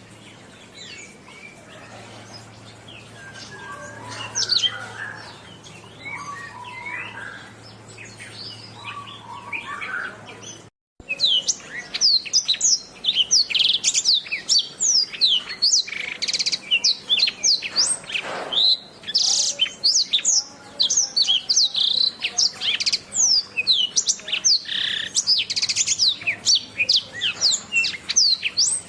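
Domestic canary singing. Softer scattered chirps over a low hum give way, after a brief dropout about eleven seconds in, to a loud, fast, continuous song of rapid high sweeping notes and trills.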